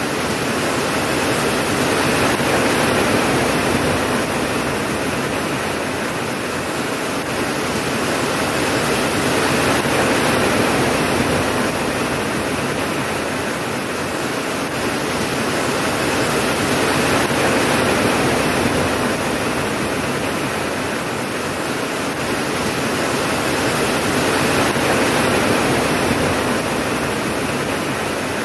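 Steady heavy rainfall, a dense hiss that swells and eases gently about every seven or eight seconds, with no thunderclap.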